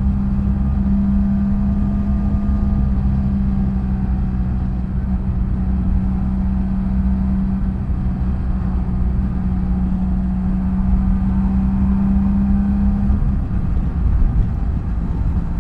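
BMW F800GS parallel-twin engine running at a steady cruise, with a rumble of road and wind noise beneath; the steady engine note changes about thirteen seconds in.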